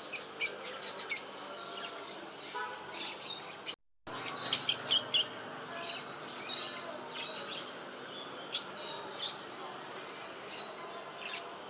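Small pet birds chirping: quick runs of sharp, high chirps in the first second and again around four to five seconds in, then scattered single chirps. The sound drops out completely for a moment just before four seconds in.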